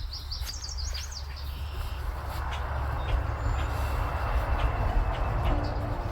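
A vehicle running with a steady low rumble, most likely the truck driving back to camp. A bird's chirping trill sounds in the first second, and a rushing hiss builds from about two seconds in.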